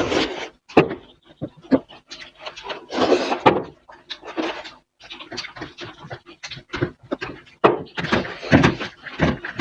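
Eating sounds of biryani being eaten: chewing and mouth smacks in an irregular string of short wet clicks, with a few longer noisy stretches.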